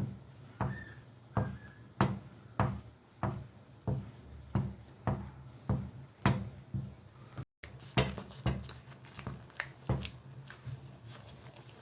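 Wooden stirring stick knocking against a cooking pot in a steady rhythm, about one and a half to two strokes a second, as thick maize-flour dhido is stirred and beaten. A low steady hum runs underneath, and the knocks break off briefly past the middle.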